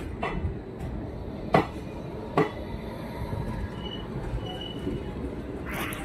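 Moving passenger train heard from an open coach doorway: a steady rumble of wheels on the track, with two sharp clanks about one and a half and two and a half seconds in, and a faint brief wheel squeal around four seconds in.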